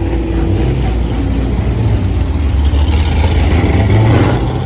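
A car engine runs loudly and swells, rising in level near the end as it revs.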